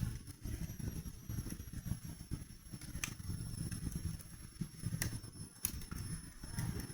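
Wood fire burning in a fireplace: a low fluttering rumble of flames with sharp crackles and pops about once a second.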